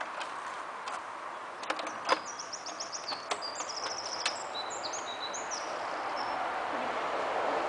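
A small songbird sings a quick, varied run of high chirps for about four seconds over steady outdoor background noise. A few sharp clicks and knocks come just before the song starts.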